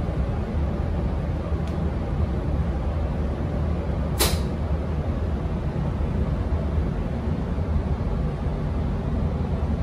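Electric intercity train at the station, a steady low rumble, with a sharp click about four seconds in and a fainter one earlier.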